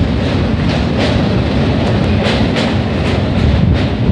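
Express passenger train running at speed onto a steel truss bridge, heard from an open coach window: a steady rumble of wheels on rail with a run of sharp clicks from the wheels passing over rail joints.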